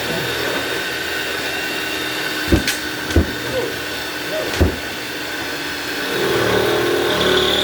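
Three sharp thumps on the rust-fused front panel and cabinet of an LG washing machine as it is forced free. They sound against a steady motor-like hum that grows a little louder near the end.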